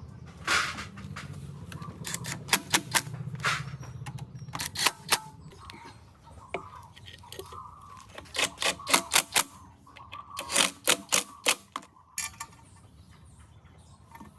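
Short runs of sharp clicks and taps from small tools and engine parts being handled at a workbench, several clicks to a run, over a low hum that fades out about four seconds in.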